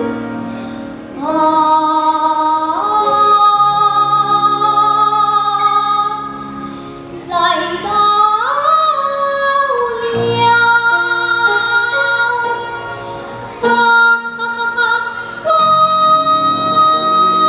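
A young girl singing solo in long held, high notes with a sliding run about eight seconds in, over musical accompaniment.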